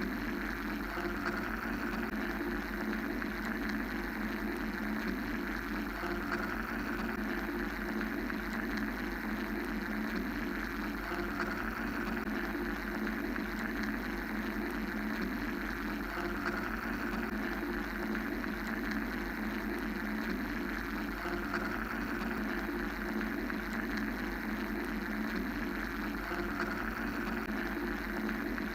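Steady mechanical-style white noise: a constant low hum and a band of rushing hiss whose upper part slowly swells and fades every few seconds.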